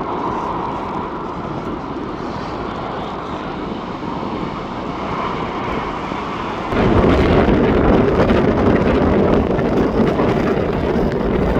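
Jet airliner engine noise, a steady rumble with wind on the microphone, jumping abruptly louder and deeper about seven seconds in.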